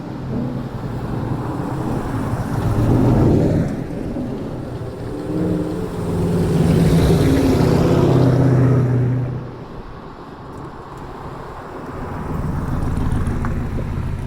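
Car engines as several cars drive past one after another, each swelling and fading; the loudest pass is about six to nine seconds in.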